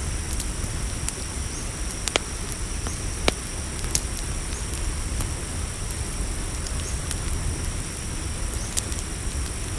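Campfire crackling with scattered sharp pops, the loudest a few seconds in and again near the end, over a steady high chirring of crickets and a low steady rumble.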